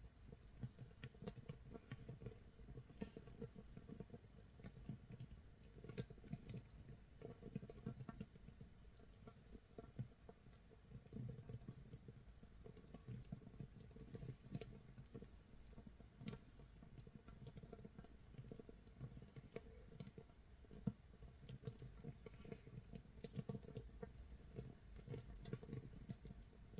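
Makgeolli base brew fermenting in an earthenware crock about 24 hours in: a faint, dense, irregular crackling and popping as gas bubbles burst through the mash, like rain or a wood fire crackling.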